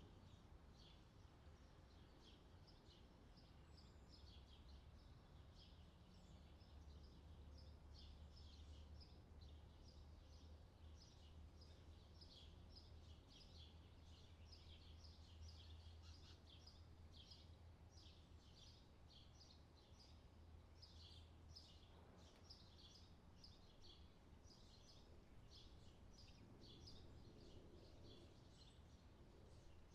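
Faint outdoor summer ambience: small birds chirping over and over, with a low steady hum underneath.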